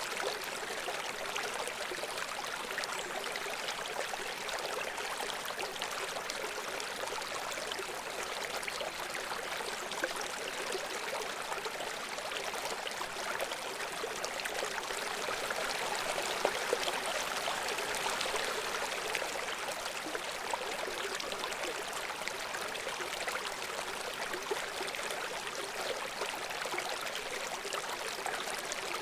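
Shallow brook babbling over stones: a steady rush of running water with small gurgles and splashes throughout.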